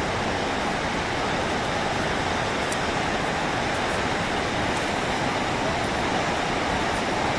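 Steady rushing roar of Snoqualmie Falls, an even wash of falling water with no change.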